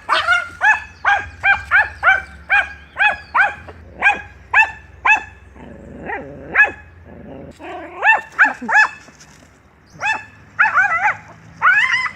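An animal yapping in a rapid string of short, high-pitched calls, about three a second. The calls thin out around the middle and pick up again near the end.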